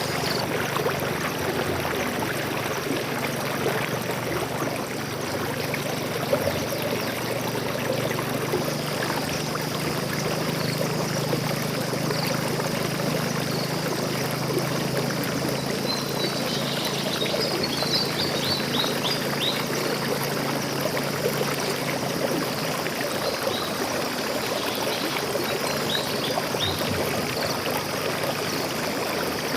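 Water flowing and trickling steadily in a stream. About halfway through, a bird calls in a quick run of short, high chirps, with a few more near the end.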